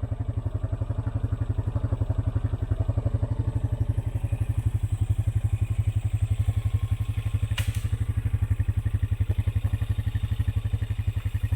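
Four-wheeler's engine running steadily at low speed with an even low pulse. A single sharp snap comes about seven and a half seconds in.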